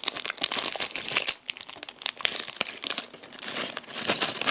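Plastic bags crinkling and rustling as small plastic building bricks are poured out, with many quick clicks of the bricks spilling.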